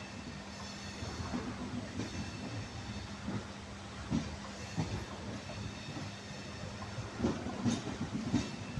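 Pothigai Superfast Express coaches running at speed, heard from a coach doorway: a steady rumble of wheels on rail, with several irregular knocks as the wheels pass over track joints, mostly in the second half, and a steady hum underneath.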